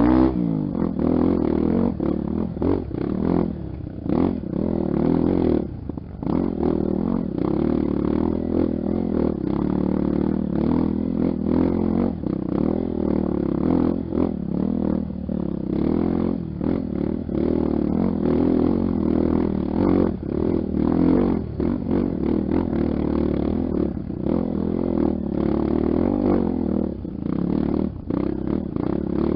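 Honda XR Tornado's single-cylinder four-stroke engine running under changing throttle on a trail ride, dipping briefly several times as the throttle is eased.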